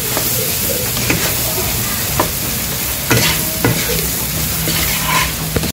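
Sliced onions and green chillies sizzling in hot oil in a wok, stirred briskly with a wooden spatula that scrapes and knocks against the pan several times.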